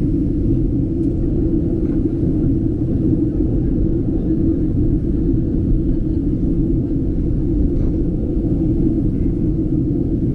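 Steady low drone inside a Boeing 737 airliner's cabin in flight: engine and airflow noise heard from a passenger seat.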